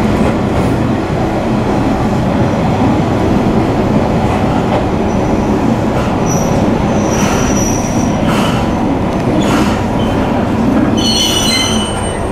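Kanto Railway diesel railcar running, heard from inside the driver's cab: a steady, loud low rumble of engine and wheels on track. Wheels squeal briefly about six and seven seconds in, and again louder in several tones near the end.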